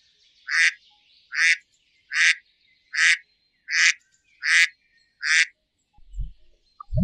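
A short animal call repeated seven times at an even pace, about one every 0.8 seconds, then a few faint low thumps near the end.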